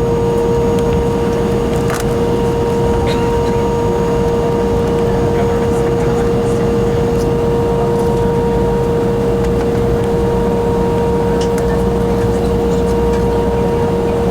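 Embraer ERJ145's Rolls-Royce AE3007 turbofan engines running steadily at idle, a constant hum with a steady whining tone over a low rumble.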